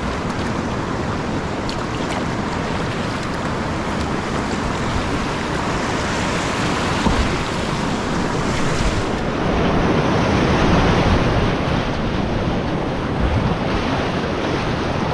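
Steady roar of whitewater at a creek rapid and ledge drop, with some wind buffeting on the microphone.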